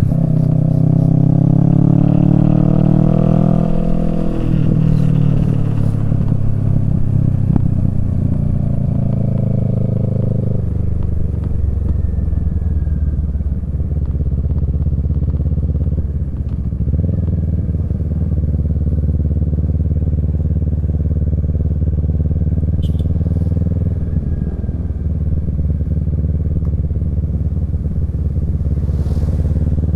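Kawasaki Z650's parallel-twin engine through a Yoshimura Alpha exhaust while riding. The revs climb over the first few seconds with a short dip about four seconds in, like a gear change, then climb again. About ten seconds in the pitch drops to a steady, lower cruise, and the revs pick up again near the end.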